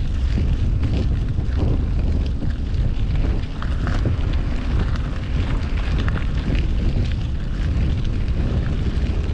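Wind buffeting the microphone of a camera riding on a moving bicycle, a loud, steady low rumble, with city traffic noise mixed in.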